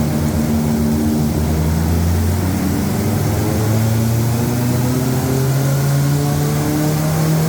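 Peugeot 205 race car's four-cylinder engine running hard, its revs climbing slowly and steadily after a brief dip near the start.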